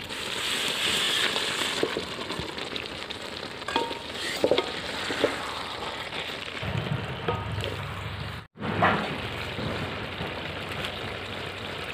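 Fried boiled eggs sizzling in a spiced onion-and-capsicum gravy in a steel kadai over a wood fire, stirred with a spatula that clicks and scrapes against the pan now and then. The sound cuts out briefly about two-thirds of the way through.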